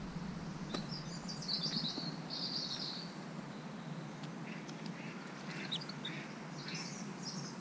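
Small birds chirping: quick runs of high calls in the first three seconds and again near the end, over a steady low hum.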